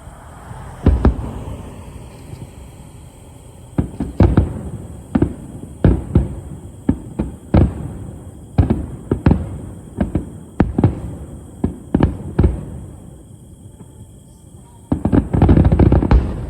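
Aerial fireworks shells bursting: a bang about a second in, then a string of bangs every half second to a second, and a dense rapid volley of bursts near the end.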